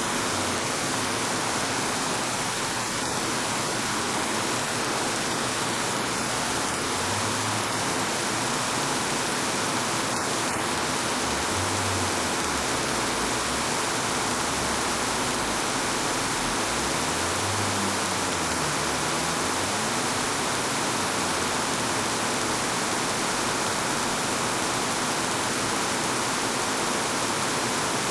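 Steady rain falling, an even hiss, with a few faint low rumbles rising and fading through it.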